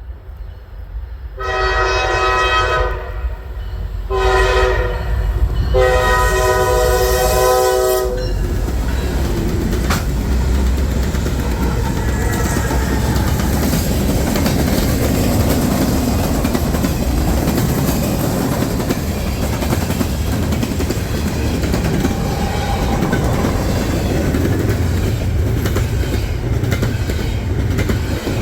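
Diesel freight locomotive horn sounding three blasts, long, short, long, followed by the lead locomotives and manifest freight cars rolling past, with engine rumble and wheels clacking over the rail joints.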